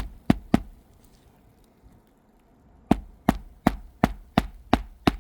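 Claw hammer driving a roofing nail into a replacement three-tab asphalt shingle with quick, even blows, about three a second. Three blows, a pause of about two seconds, then a run of about seven more.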